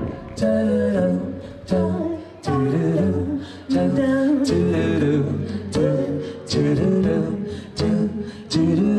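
A cappella vocal group singing in harmony: several voices in chords, in short phrases that start sharply and break off every second or so.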